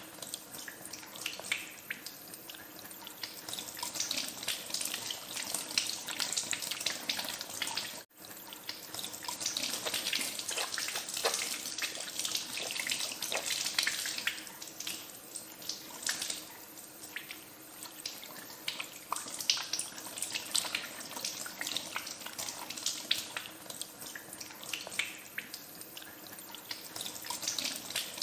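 Tap water running into a sink, splashing and spattering unevenly as hands are washed under the stream. It swells louder for a few seconds in the middle, with a momentary gap about eight seconds in.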